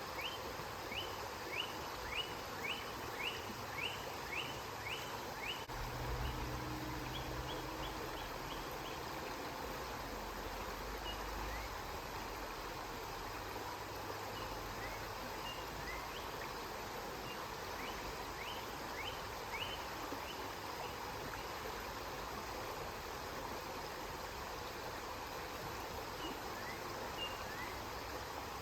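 River water flowing steadily, with a run of short, quick chirps, about two a second, over the first six seconds and again around the middle. A low rumble comes in about six seconds in and fades out around twelve seconds.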